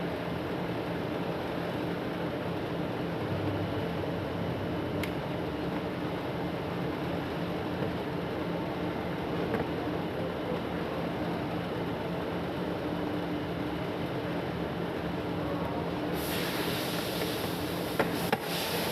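Electric exhaust fan running with a steady hum. About sixteen seconds in a brighter hiss joins it, and a couple of clicks come near the end.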